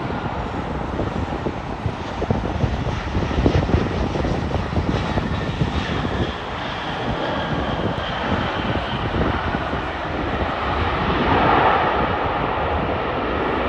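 Jet engines of a Boeing 737-800 (CFM56 turbofans) on landing approach, a steady rushing roar with a faint high whine that falls slightly in pitch midway, growing loudest near the end as the airliner passes.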